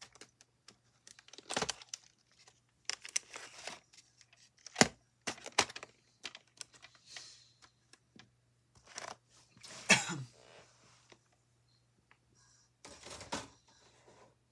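A VHS videotape and its plastic case being handled: scattered clicks, knocks and short rustles, the loudest knock about ten seconds in, over a faint steady low hum.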